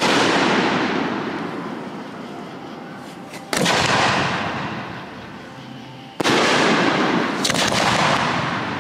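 Aerial firework shells bursting: a loud boom right at the start, then two more about three and a half and six seconds in. Each boom is followed by a long rolling echo that fades away.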